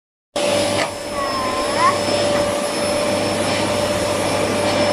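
Vacuum cleaner running steadily with a constant whine, with a brief voice about a second in.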